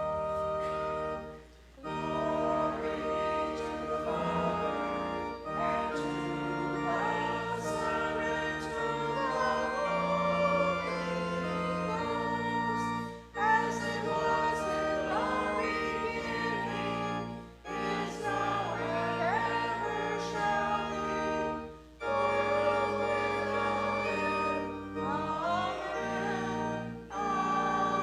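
Church organ playing with voices singing along, in phrases with short breaks between them.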